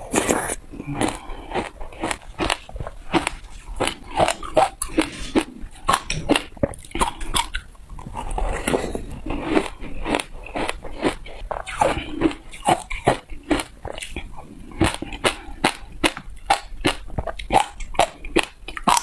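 A person biting into and crunching hard ice close to the microphone: an irregular run of sharp cracks and crunches, several a second.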